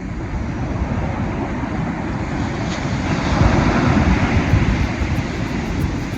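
Wind buffeting the microphone over the wash of waves, a steady loud rumbling noise that swells in the middle.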